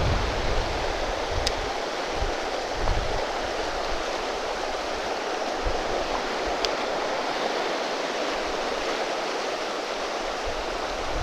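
River water rushing steadily, an even hiss of current over rocks, with two faint short ticks partway through.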